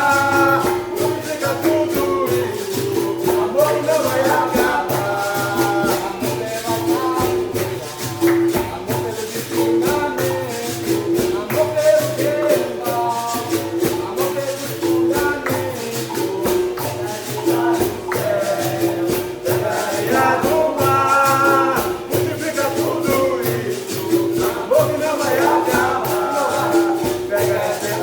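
Capoeira roda music: group singing over a berimbau's repeated note and the steady rhythm of a pandeiro and other percussion.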